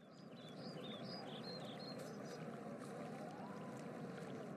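Faint outdoor park ambience: a steady, even hiss of background noise fading in. Short high chirps, like small birds, come during the first couple of seconds.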